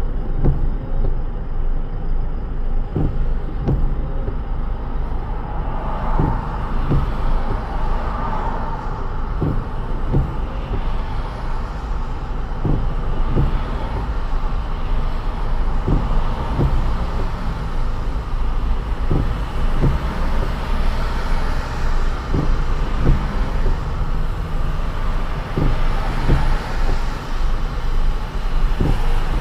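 Car driving on a rain-soaked road: a steady low road rumble with a hiss of tyres on wet pavement that grows louder a few seconds in, and short knocks at irregular intervals.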